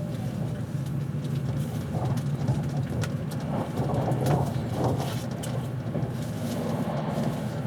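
Passenger train running at speed, heard from inside the carriage: a steady low rumble of wheels on rail with scattered light clicks and rattles, most around the middle.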